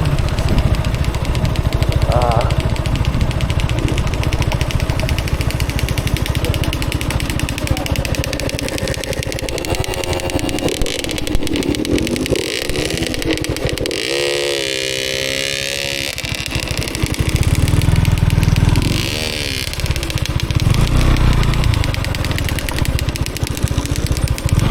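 Motorcycle engine running while riding, its pitch rising and falling with the revs.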